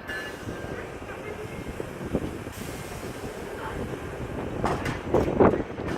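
GO Transit commuter train rolling slowly along the platform, a steady low rumble after its wheel squeal has died away, with louder knocks near the end.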